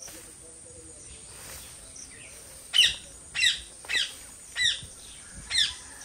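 A bird calling a run of five sharp, falling notes, about two a second, starting about halfway through.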